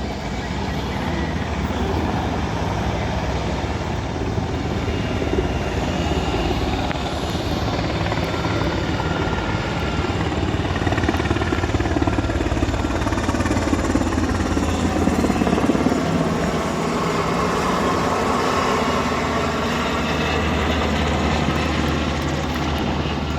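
Embraer C-390's twin IAE V2500 turbofan engines running at low power while the aircraft taxis to park: a steady jet roar with a faint high whine, swelling a little in the middle.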